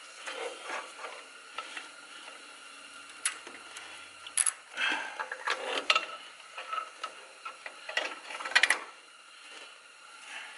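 Irregular metallic clicks, clinks and short scrapes of hand tools and steel parts being handled while a brake hose bracket and its bolts are worked into place, with a few sharper clicks about three, four and a half, and eight and a half seconds in.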